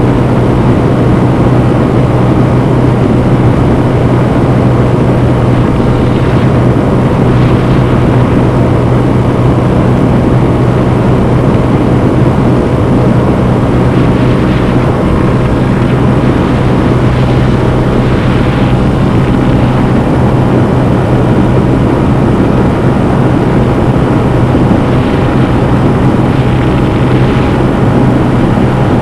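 Honda CB125F's air-cooled 125cc single-cylinder four-stroke engine under throttle, recorded onboard, holding a steady, unchanging pitch at constant revs while cruising.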